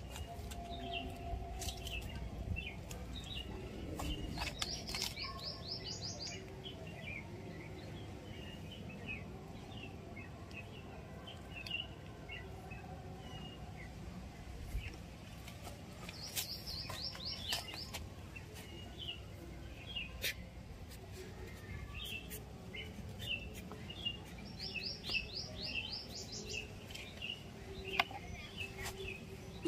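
Songbirds chirping with many short calls throughout, while one bird three times sings a quick run of high, evenly spaced notes, roughly ten seconds apart.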